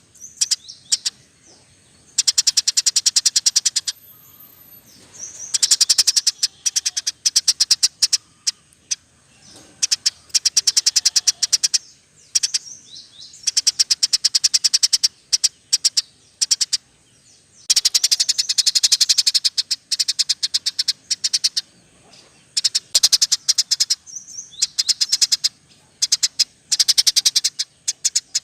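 Small songbirds chattering in a mixed bird-song training recording: several-second bursts of very fast, high-pitched chirps and trills, broken by short pauses.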